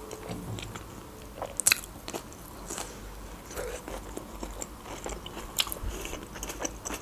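A person chewing and eating into a close microphone, with scattered wet mouth clicks and smacks.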